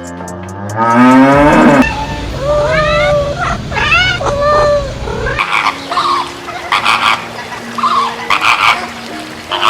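Several animal calls that rise and fall in pitch, followed by a run of shorter repeated calls, over a deep rumble in the first half.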